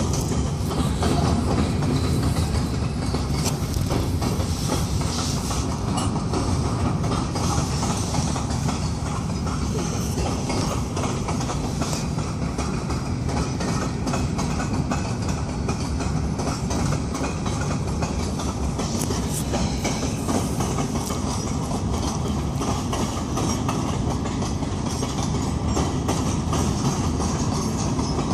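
KCSM freight train's gondola cars rolling past, a steady rolling noise of steel wheels on rail with irregular clacks as the wheels cross rail joints.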